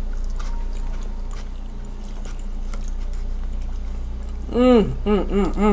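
Quiet eating: faint chewing and small clicks over a steady low hum. About four and a half seconds in, a person's voice makes a few short sounds that rise and fall in pitch.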